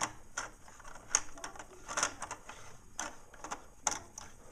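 Plastic Lego parts clicking and knocking together at an irregular pace as a jet ski model is handled and pushed into the helicopter's hold.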